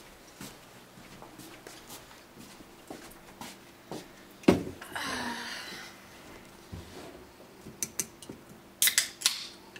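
Small objects being handled: scattered light clicks and knocks, a sharp knock about halfway through followed by about a second of hiss, and a quick cluster of clicks near the end.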